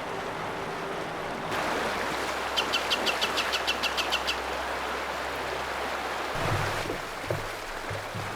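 A small bird calling a quick series of about a dozen short, evenly spaced high notes, over a steady rushing background of river water or wind. A few soft low knocks follow near the end.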